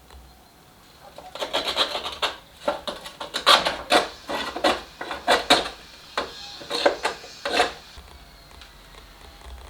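An irregular run of about a dozen rough scraping strokes, like hand work on a workpiece with a file or abrasive. They start about a second in and stop after about eight seconds.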